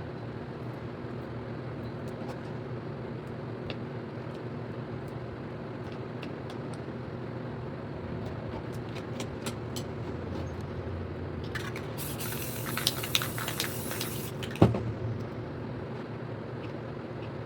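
An aerosol spray paint can sprayed in one hissing burst of about three seconds past the middle, ending in a sharp knock, over a steady mechanical hum with scattered light clicks.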